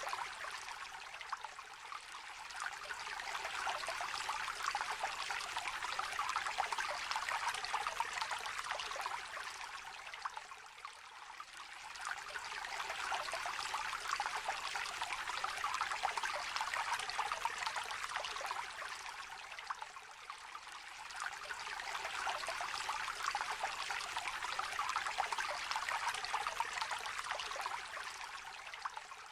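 A small river trickling and babbling, a steady fine splashing hiss that swells and eases about every nine to ten seconds.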